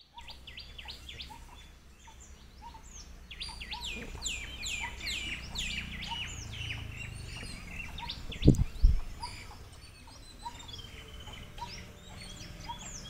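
Birds calling and chirping, many quick whistled notes that drop in pitch, over a short lower note repeating about twice a second and a faint low rumble. Two dull thumps come close together about two-thirds of the way through.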